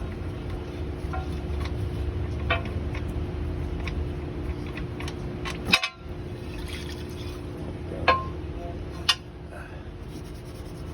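Hot engine oil pouring out of the oil pan through the open drain-plug hole, over a steady shop hum. A few sharp metallic clinks come about halfway through and again near the end.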